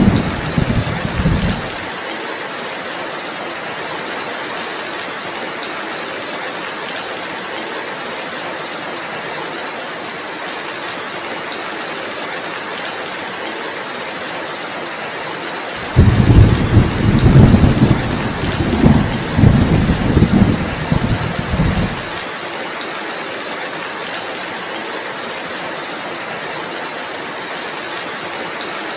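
Steady heavy rain hissing throughout. Two deep rumbles of thunder roll through: one dies away in the first two seconds, and a louder one starts about 16 seconds in and rolls on for about six seconds.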